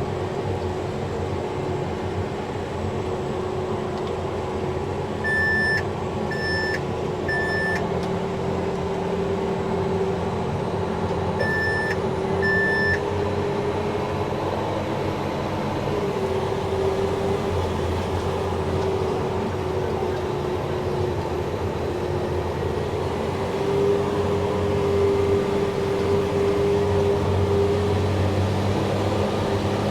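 Cummins diesel engine of a self-propelled sprayer running steadily under load, heard from inside the cab, its pitch stepping up slightly about halfway through. Short high electronic beeps sound three times and then twice more from the cab.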